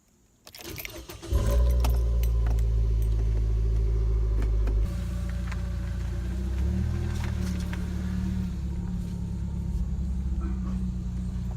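Keys jingle, then a 2013 Nissan Versa's four-cylinder engine starts about a second in. It runs at a fast idle with a loud, deep exhaust note, then settles to a lower idle about five seconds in. The exhaust is loud because the pipe has rusted through and snapped at the flange.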